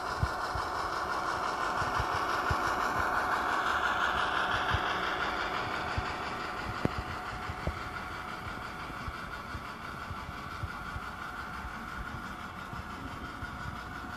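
Hornby Class 08 model shunter's DCC sound decoder playing a diesel engine running through the model's small speaker, growing louder over the first few seconds and then slowly fading as the loco moves along the track. Irregular light clicks from the wheels on the track come through it.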